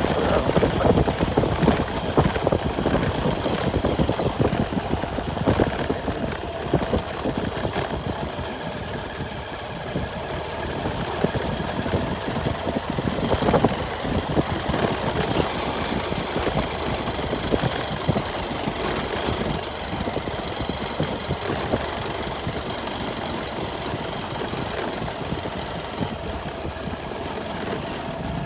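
Vehicle engine running steadily while under way, with many small knocks and rattles.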